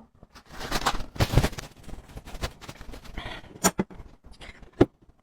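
Close-miked mouth and tableware handling sounds: a string of light clicks and taps with breathy, rustling stretches.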